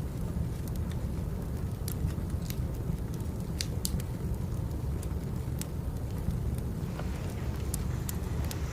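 Wood fire crackling: sharp pops at irregular moments over a steady low rumble.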